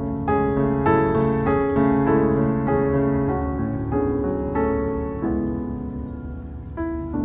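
Background piano music: a soft, slow melody of single notes and chords.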